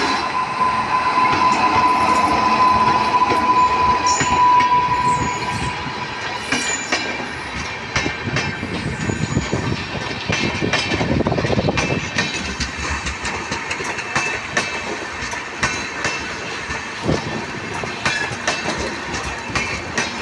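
Indian Railways train passing close by, its wheels clattering rhythmically over the rail joints. A single steady high tone sounds over the first five seconds or so, then fades out.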